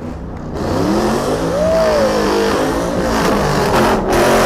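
A car engine revving hard, its pitch climbing then falling, then falling again near the end, over a loud broad hiss that starts about half a second in.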